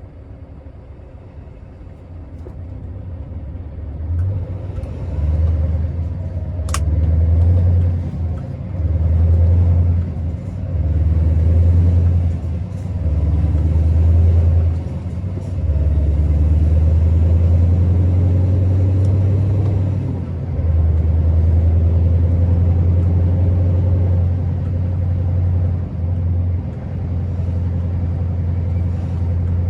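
Scania R650's V8 diesel engine building from a quiet low rumble into a loud, deep drone as the truck pulls away and gathers speed, the note dipping briefly every couple of seconds through the first half, typical of gear changes, then running steadily under load. A single short click comes about seven seconds in.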